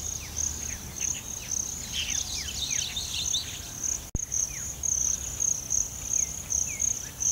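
Insects chirping in a steady, rapid pulsing rhythm, with birds calling over them in short falling whistled notes and a burst of busier chattering about two to three seconds in. The sound drops out for an instant a little past four seconds.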